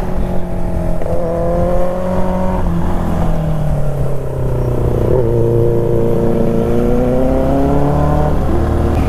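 Benelli 600i inline-four engine under way, pulling through the gears. Its pitch climbs, drops sharply at an upshift about two and a half seconds in, sags as it eases off, then climbs again until another shift near the end.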